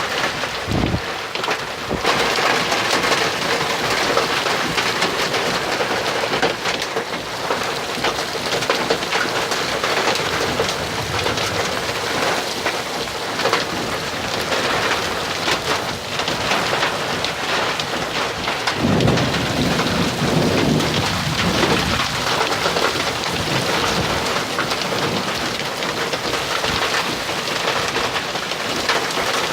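Heavy rain falling steadily, with a low rumble of thunder about two-thirds of the way through.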